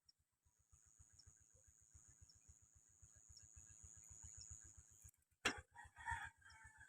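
Near silence with a faint steady high-pitched hiss, broken by a sharp click about five and a half seconds in and a brief faint sound just after it.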